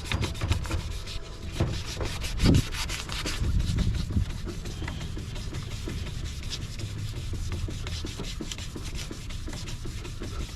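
Sandpaper rubbing back and forth on a plastic headlight lens in rapid, repeated scraping strokes.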